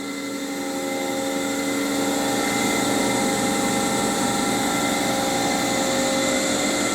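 2001 Haas SL20T CNC lathe running with a steady machine hum and whine that grows louder over the first couple of seconds, then holds level.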